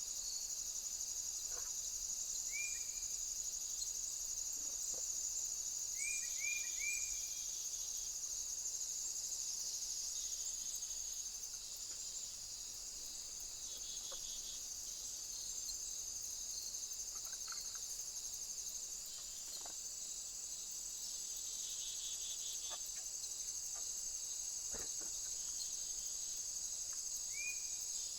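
Steady shrill chorus of crickets or similar insects, high-pitched and finely pulsing, with a few brief rising chirps and faint ticks.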